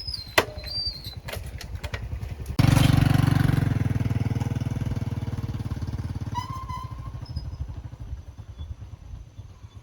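A few clicks, then a small motorcycle engine starts abruptly about two and a half seconds in and runs with an even low pulse, fading steadily as it moves off.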